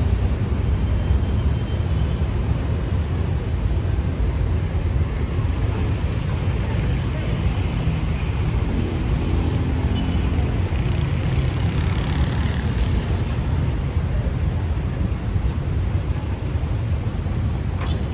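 Steady rumble of road traffic on a busy city avenue, cars and engines passing continuously.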